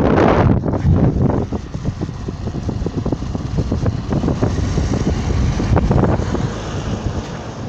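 Strong blizzard wind buffeting the microphone in irregular gusts, with a heavy low rumble.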